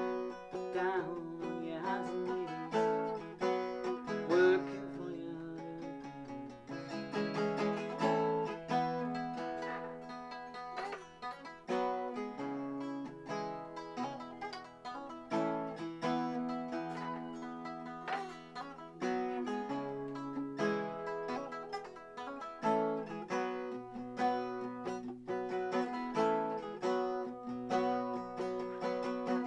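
Solo acoustic guitar playing an instrumental passage without singing, a fast run of picked notes and chords.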